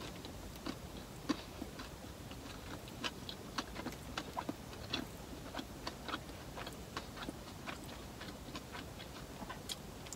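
A person chewing a mouthful of sandwich with mouth closed: soft, irregular clicks and smacks, a few each second.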